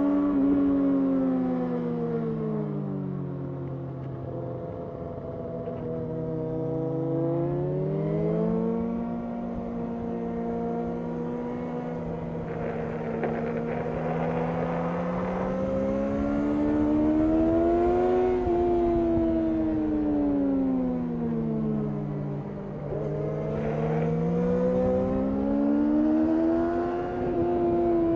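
Yamaha R6 inline-four sport bike engine heard from onboard at track speed. The pitch drops in steps through downshifts under braking near the start, then climbs and falls again twice as it accelerates out of corners and shifts, with wind noise underneath.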